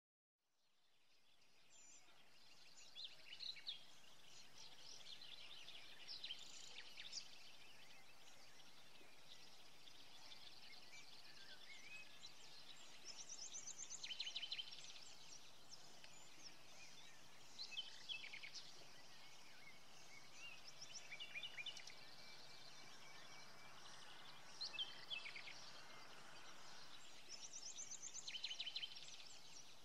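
Small birds chirping and trilling in short high calls, again and again, over a faint steady background hum; it fades in over the first couple of seconds.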